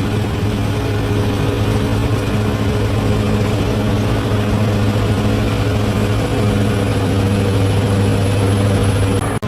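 Large bulldozer's diesel engine running steadily, with a strong low hum and steady higher tones over a broad mechanical noise. It drops out for an instant near the end.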